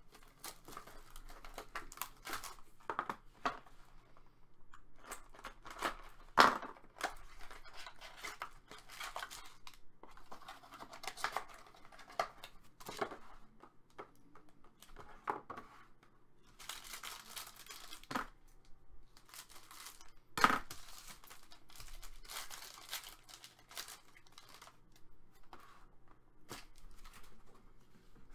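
A sealed hockey card box and pack being opened by hand: packaging tearing and crinkling in irregular stretches, with a few sharp knocks and clicks of cardboard and cards being handled.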